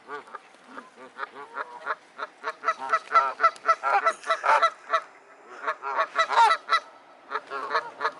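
Waterfowl honking in quick runs of short, repeated calls, several birds at once. The calls are loudest from about three to five seconds in and again around six seconds.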